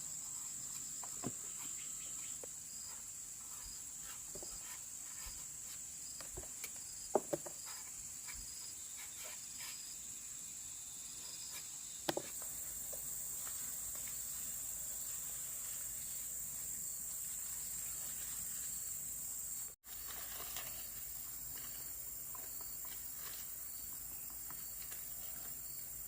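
Insects, crickets by the sound of the tags, chirring in a steady high continuous drone, with a few short sharp knocks partway through.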